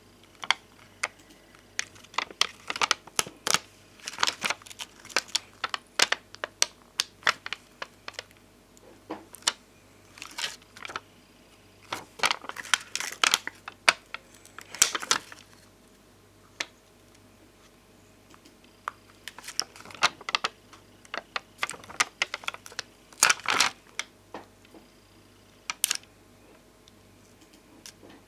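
Thick, glossy bonbon drop and ohajiki stickers being handled on their sheets: clusters of irregular sharp clicks, taps and crinkles. There are short pauses between the clusters.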